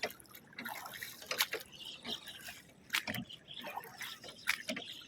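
A large flock of small birds chattering together in trees as they gather to roost for the evening: a dense, continuous jumble of short chirps and calls.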